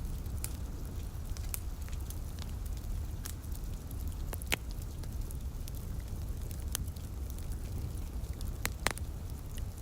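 Wood fire crackling, with scattered sharp pops, the loudest about halfway through and a pair near the end, over a steady low rumble.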